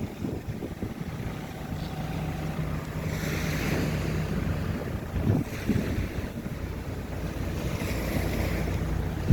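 HİDROMEK backhoe loader's diesel engine running under work, a steady low rumble. A hiss rises twice, about three seconds in and again near the end, and there are a couple of knocks about five seconds in.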